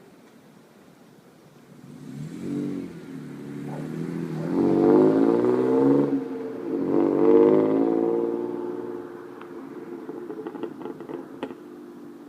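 1998 BMW E39 528i's 2.8-litre straight-six, exhaust with the muffler deleted, idling, then revved three times: a short blip, then two longer, louder revs that rise and fall back to idle.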